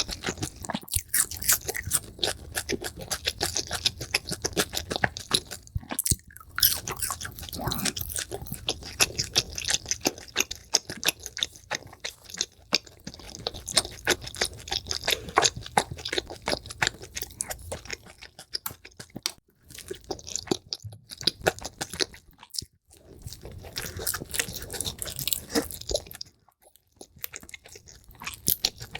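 A person chewing crunchy food, a rapid dense run of crisp crunches, played back sped up, with a few short pauses.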